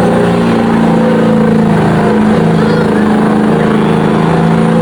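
Truck engine running at full throttle under heavy load, pulling the sled in a truck-pull competition; a loud, steady engine note held throughout.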